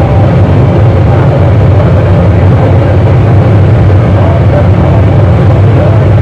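Loud, unbroken wall of distorted electronic noise music, heavy in the low end with a wavering tone riding above it.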